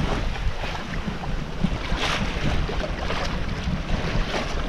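Wind buffeting the microphone, with water washing against a sailboat's hull.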